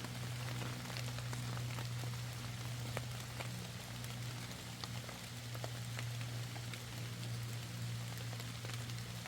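Steady rain falling, many separate drops ticking close by over an even patter, with a steady low hum underneath.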